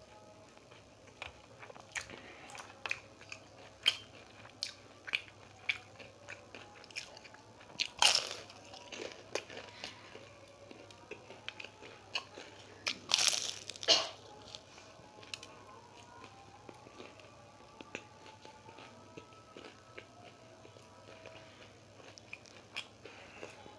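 Close-up mukbang eating sounds: biting and chewing crisp fried samosa pastry, a run of short crunchy clicks and smacks. Two louder, longer noisy crunches come about eight and thirteen seconds in.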